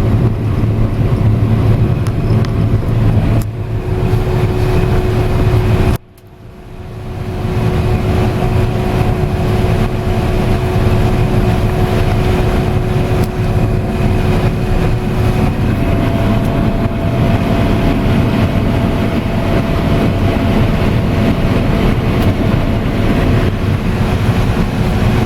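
Combine harvester running steadily while harvesting corn, heard from inside the cab: a loud, even machine drone with a few steady hum tones. The sound drops out abruptly about six seconds in and swells back within a second or two.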